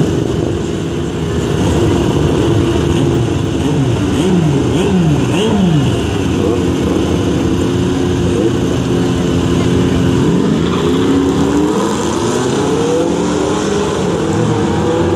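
Drag-race start between a Camaro SS with its L99 6.2-litre V8 and a second car. The engines are revved up and down while staged, then both launch about ten seconds in and accelerate hard down the strip, engine pitch climbing and dropping back with each gear change.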